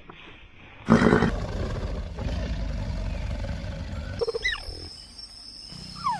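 A big cat's low roar starts suddenly about a second in and runs for about three seconds. It is followed by a few short high calls that fall steeply in pitch.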